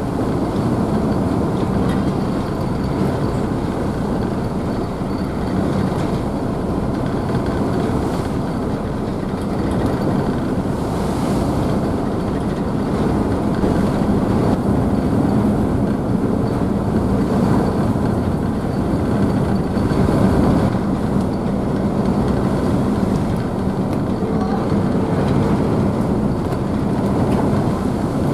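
Ferry's engines running with a steady low hum, mixed with the rushing and splashing of the wake churned up behind the stern.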